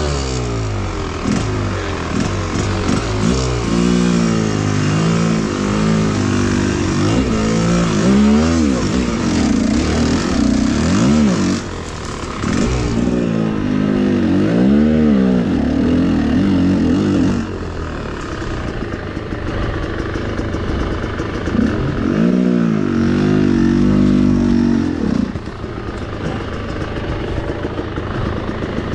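Enduro motorcycle engine being ridden, revving up and down over and over, its pitch rising and falling every second or two. It runs quieter from about two-thirds of the way in.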